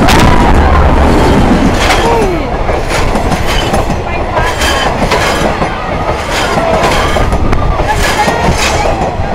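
A train passing close by at speed: a loud, continuous rumble with a rhythmic clatter of wheels over the rail joints.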